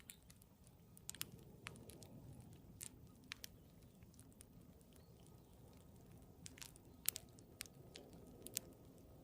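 Campfire burning low and faint, its wood crackling with irregular sharp pops and snaps.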